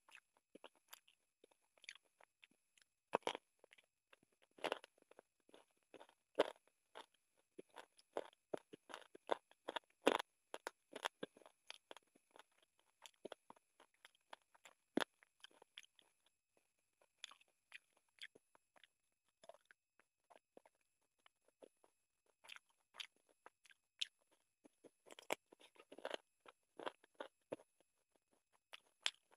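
Close-up eating sounds: a person chewing and biting chicken curry with rice, in short, irregular clicks and crunches, with a quieter stretch about two-thirds of the way through.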